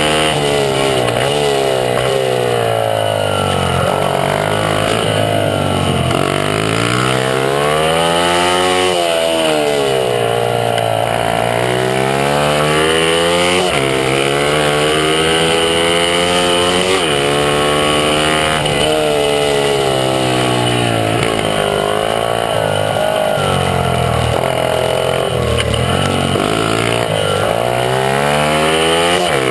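Honda CRF50 pit bike's small single-cylinder four-stroke engine at race pace, revving hard. Its pitch climbs under throttle and drops back again and again, every few seconds, through shifts and corners.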